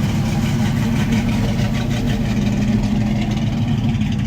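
A car engine idling steadily, with a low, even rumble.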